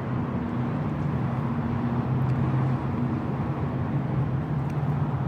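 A steady low mechanical hum with a faint background rumble, like an idling motor or running machinery.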